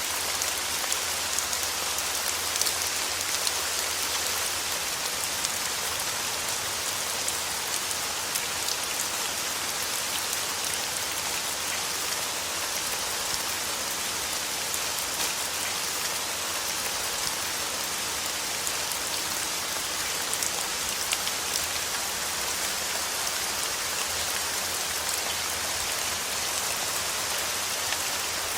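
Steady rain falling on a surface: an even hiss of dense drops, with many small individual drop ticks scattered through it.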